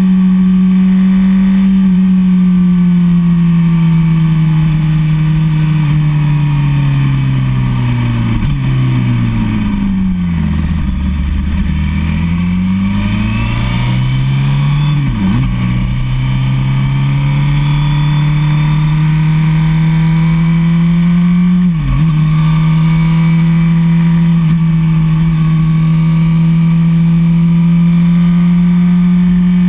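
Sport motorcycle's inline-four engine under way: a steady cruising note that drops as the bike slows about a third of the way in, then climbs again, broken twice by quick gear-change dips, and settles back to a steady cruise.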